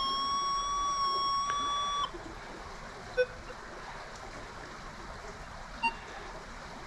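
Metal detector sounding a steady target tone for about two seconds, then cutting off, followed by two short single beeps at different pitches. Shallow water trickles underneath.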